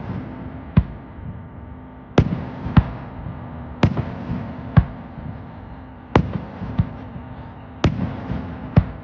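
Aerial fireworks shells bursting: about nine sharp bangs, often in pairs, each trailing a short echo. The booms carry around the mountain-ringed lake.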